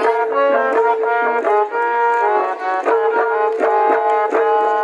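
Instrumental break in a Kumaoni folk song: a melody in held, stepping notes over a steady drone note, with regular drum strokes about two or three times a second.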